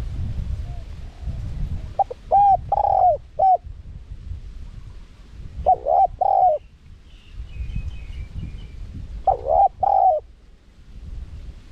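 Spotted dove cooing: three short phrases of a few coo notes each, spaced a few seconds apart, over a low rumble. A few faint high chirps from another small bird come between the second and third phrase.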